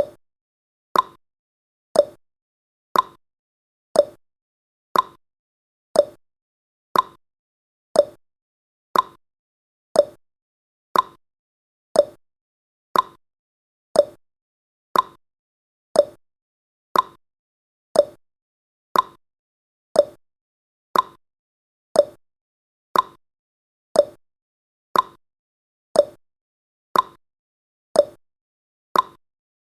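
Countdown timer's tick sound effect: one short, sharp tick every second, steady and even.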